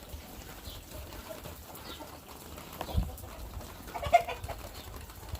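Chickens clucking while they feed, with a short thump about three seconds in and a louder call just after four seconds.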